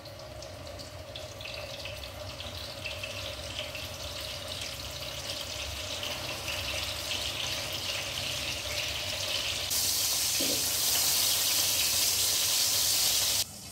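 Pointed gourds coated in salt and turmeric sizzling as they fry in hot oil in a frying pan. The sizzle builds slowly, then turns much louder and brighter about ten seconds in as the pieces are turned with a wooden spatula.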